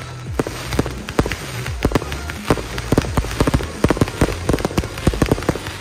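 Fireworks display: a quick run of bangs and crackles from launching comets and aerial bursts, the reports coming faster and denser from about halfway on.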